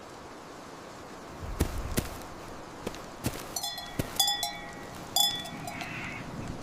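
Steady hiss of rain with scattered sharp knocks, then a small metal bell clanking three or four times in the second half.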